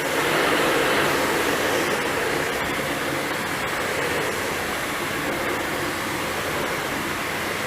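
Philips vacuum cleaner running steadily, a little louder in the first couple of seconds.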